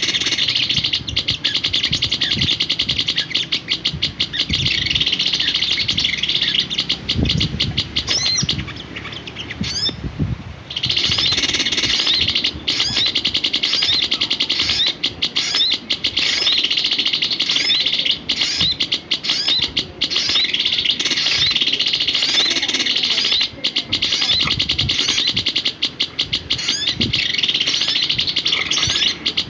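Small songbird singing a long, fast, unbroken run of chirps and trills. It breaks off for about two seconds around nine seconds in, then carries on.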